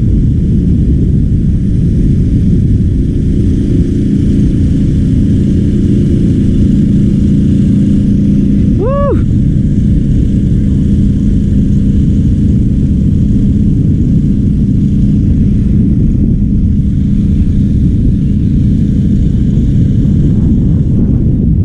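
Loud steady low rumble of wind buffeting the microphone, with a steady hum under it. About nine seconds in comes one short call that rises and then falls.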